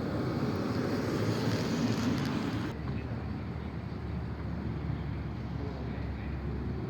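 Car engine and road noise from vehicles driving out, with some wind on the microphone. The sound changes abruptly about a third of the way in, losing its hiss, as at a cut.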